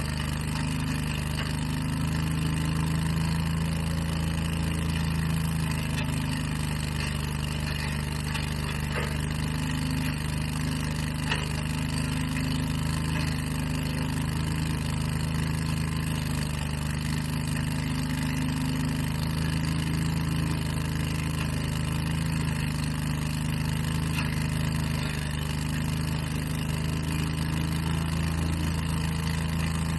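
Engine of outdoor landscaping equipment running steadily at a constant speed, with a strong low hum throughout.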